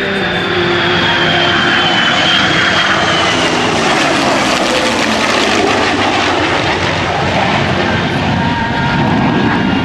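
Heritage Flight formation of a P-51 Mustang, a QF-4E Phantom and an F-22 Raptor flying past: loud, sustained engine noise, with a high whine that falls in pitch over the first few seconds as the aircraft go by.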